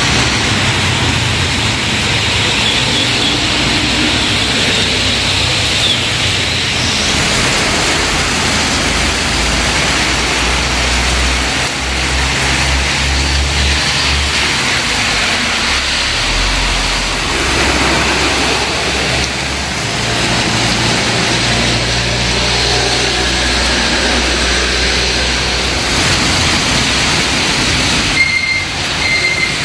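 Vehicle travelling in heavy rain: a steady, loud rushing noise with a low engine hum underneath that steps up and down in pitch every few seconds.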